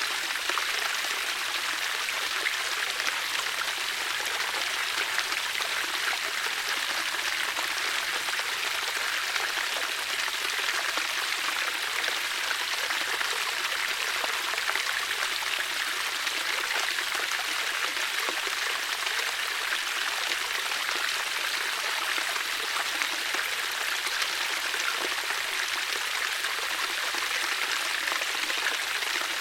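Water flowing steadily, like a stream or brook, as an even rushing babble with no change over time.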